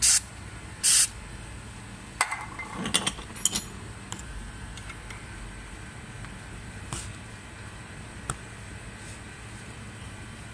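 Two short hisses of a WD-40 aerosol can spraying penetrating oil onto a rusted shifter linkage bolt, one right at the start and one about a second in. Then a cluster of metallic clinks and knocks from tools against the linkage about two to three and a half seconds in, followed by occasional single clicks.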